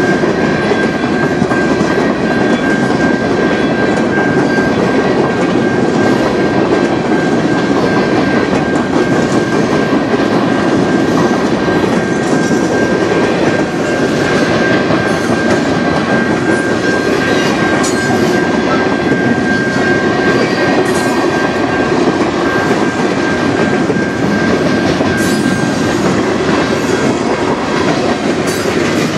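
Freight cars of a CN manifest train rolling past at track side, wheels clattering over the rails. A steady high-pitched tone runs on top and stops a few seconds before the end.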